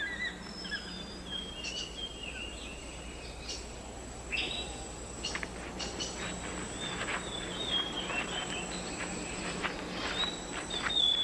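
Rainforest ambience: many short bird calls and chirps, some gliding in pitch, over a steady high-pitched insect drone and scattered clicks.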